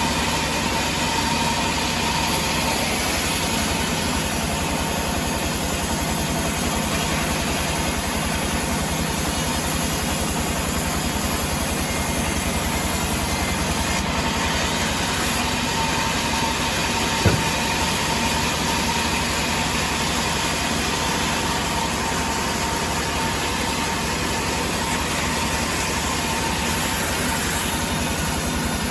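An engine running steadily at an even speed, with a faint steady whine over it and one sharp click about seventeen seconds in.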